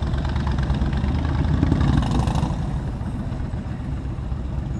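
Motorcycle engine running steadily at low revs while riding in traffic, with a rush of noise that swells and fades about two seconds in.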